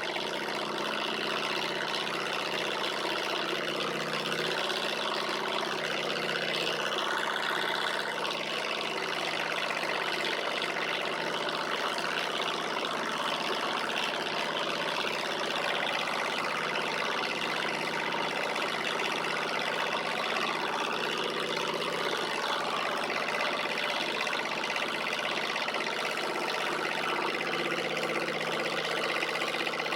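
Alpha-type Stirling engine running steadily, a continuous mechanical whine with slight wavers in pitch.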